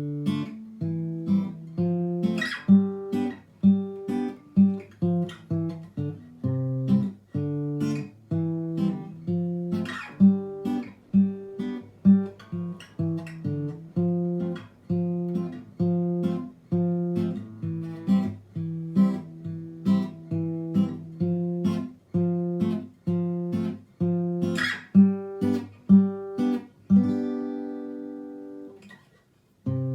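Background music: acoustic guitar picked in a steady, repeating pattern, ending on a held chord that fades out near the end before the music starts again.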